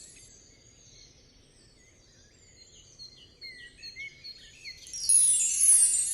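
Small birds chirping in short quick calls, then about five seconds in a loud, bright chime sweep falling in pitch.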